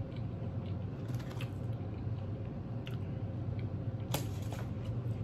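Close-up chewing and mouth sounds of a person eating, soft wet clicks over a low steady room hum, with one sharper click about four seconds in.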